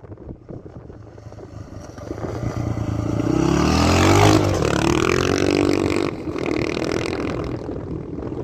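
Motorcycle engine passing by: the pitch and loudness climb as it approaches, peak about four seconds in, then the pitch drops as it moves away.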